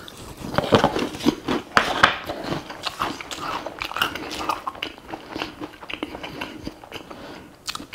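Close-miked chewing and biting of food: a dense run of small, irregular clicks and wet mouth smacks.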